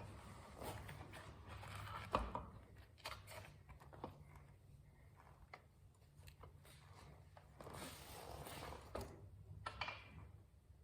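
Faint clicks, knocks and rustling of parts being handled during a motorcycle rear-wheel reassembly, with one sharper knock about two seconds in, over a low steady hum.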